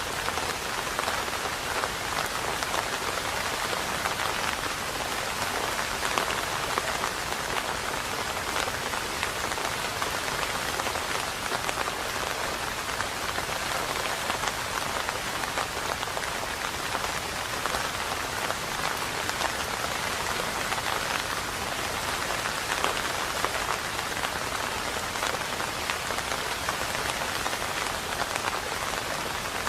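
Steady rain falling, a dense even patter of individual drops with no thunder.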